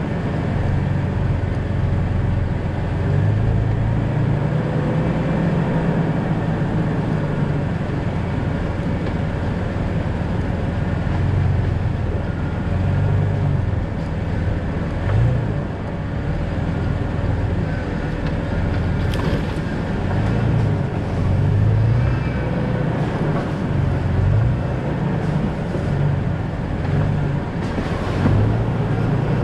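2000 Jeep Cherokee XJ driving on a backcountry road: steady engine and road noise, the engine's pitch shifting up and down, with a few brief knocks.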